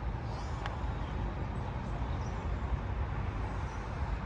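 Steady low rumble of road traffic in the background.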